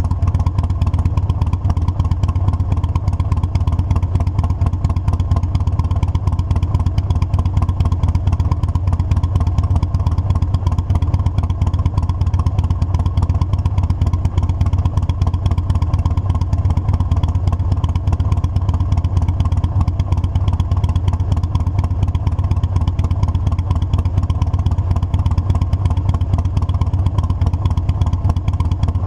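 Motorcycle engine running steadily at an even speed while riding, loud and unchanging, with no revving up or down.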